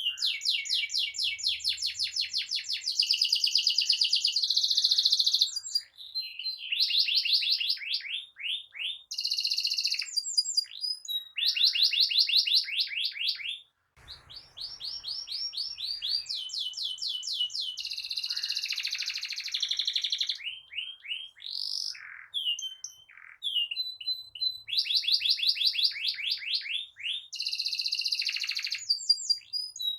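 Domestic canary singing a long rolling song: fast, high-pitched runs of rapidly repeated notes in phrases a few seconds long, with short pauses between them.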